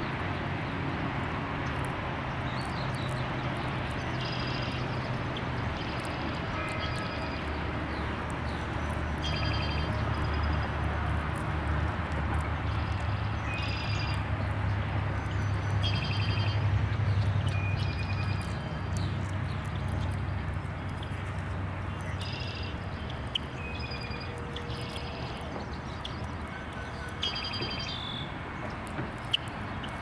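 Birds calling with short, repeated chirps every second or two over steady outdoor background noise and a low rumble that grows louder through the middle.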